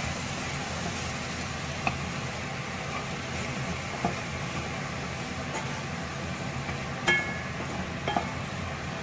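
Chicken pieces and green peas frying in oil in a nonstick pot with a steady sizzle, as a spatula stirs and scrapes through them, knocking against the pot a few times.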